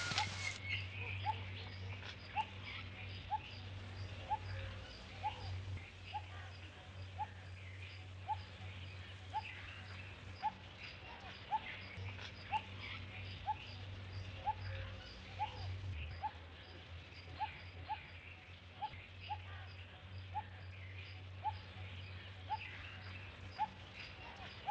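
Outdoor garden ambience: a bird repeating a short rising call about every three-quarters of a second, with fainter high chirps, over a steady low hum.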